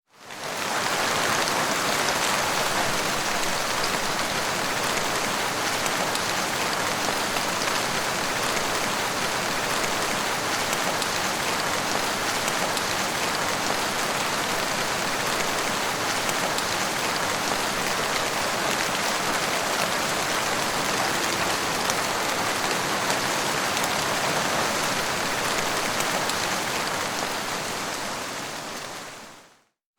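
Steady rain falling, an even hiss of drops with no distinct strikes or rumbles. It fades in over the first second and fades out near the end.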